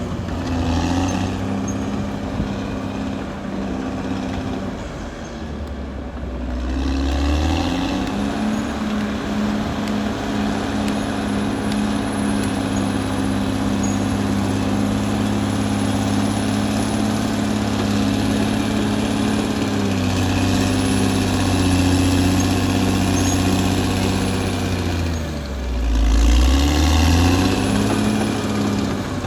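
Caterpillar D6R XL bulldozer's diesel engine running hard while the dozer works soil. Its pitch sags twice, about five seconds in and again near the end, as the engine is loaded, then climbs back.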